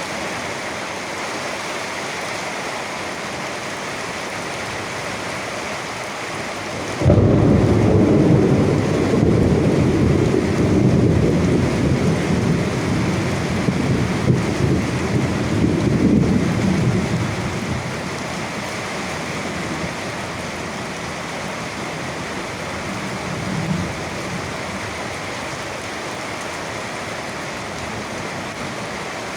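Steady rain with a thunderclap about a quarter of the way in: a sudden loud, low rumble that rolls on for about ten seconds and fades back into the rain. A faint further rumble comes near the end.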